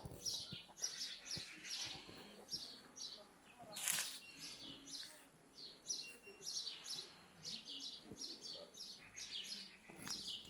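Small birds chirping, a busy run of many short high chirps several times a second, with one brief louder burst of noise about four seconds in.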